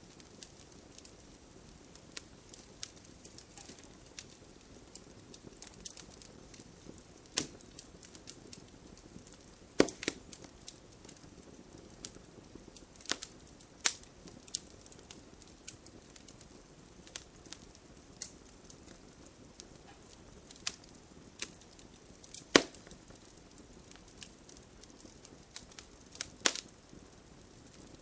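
Wood fire crackling in a fireplace: irregular sharp pops and snaps over a low steady hiss, two pops standing out louder about ten seconds in and again after about twenty-two seconds.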